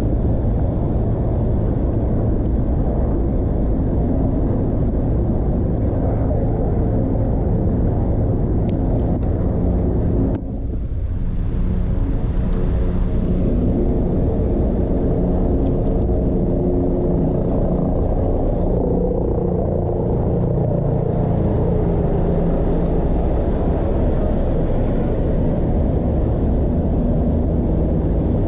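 Steady low rumble of wind and road noise on a chest-mounted GoPro as a bicycle rides through city traffic, dipping briefly about ten seconds in.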